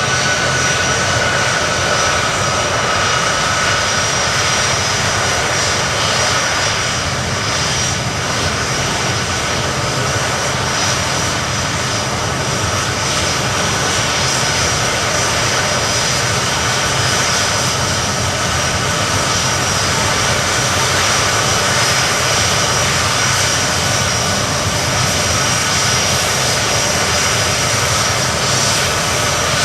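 Boeing C-17 Globemaster III's Pratt & Whitney F117 turbofan engines running steadily: a loud, even rush with two steady high-pitched whines over it.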